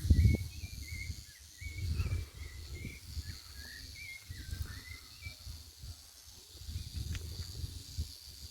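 Outdoor nature ambience: wind buffeting the microphone in gusts, with short faint bird chirps in the first half and a steady thin insect drone.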